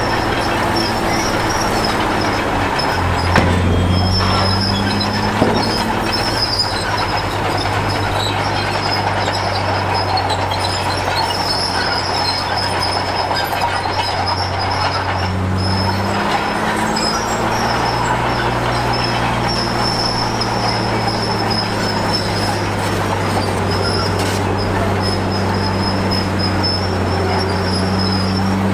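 Heavy diesel engine of a crawler bulldozer running steadily, its pitch shifting with the load about three and sixteen seconds in, with a steady high-pitched metallic squeal over the engine.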